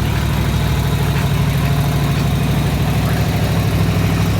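A car engine running steadily with a low hum; its low tones shift slightly about three seconds in.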